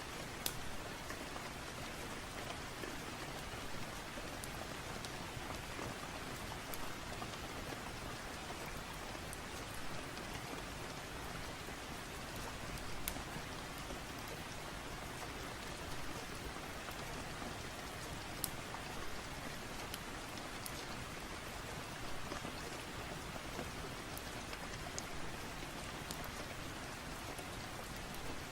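Steady rain falling, an even hiss with scattered sharp clicks every second or two.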